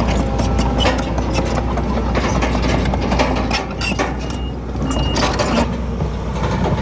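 Diesel engine of heavy earthmoving machinery running steadily, with frequent clanks and rattles over it. It eases off briefly in the middle, where two short high squeaks sound.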